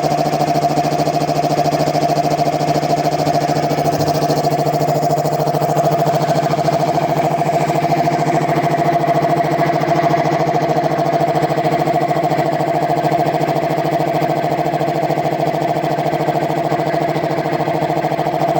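Piston air compressor with its newly fitted Puma compressor head, running steadily on test under its electric motor: a continuous mechanical hum with a fast, even pulsing from the pump strokes.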